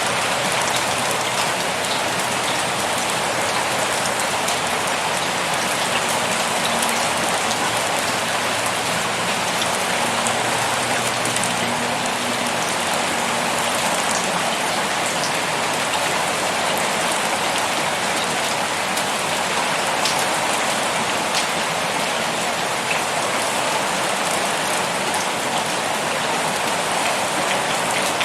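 Heavy rain pouring steadily, a dense even hiss of drops with scattered individual drop taps on a surface.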